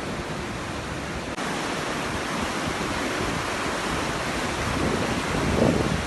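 Steady rushing of running water, as in a flooding wadi, which turns abruptly brighter about a second and a half in. Wind buffets the microphone in low gusts near the end.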